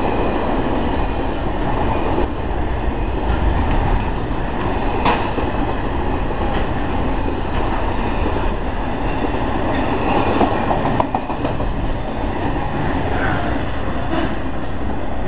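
Double-stack intermodal container freight cars rolling past close by: a steady rumble of steel wheels on the rails, with a few sharp clicks from the wheels.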